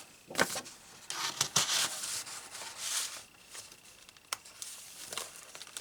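Paper rustling as pieces in a handmade journal are handled and its pages turned, in several short brushes, with one sharp tick about four seconds in.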